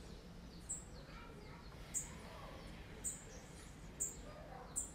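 A small bird chirping: five short, high chirps roughly a second apart, each sweeping quickly down in pitch, over faint steady background noise.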